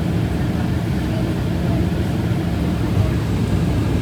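Light airplane engine and propeller running steadily, a constant low drone.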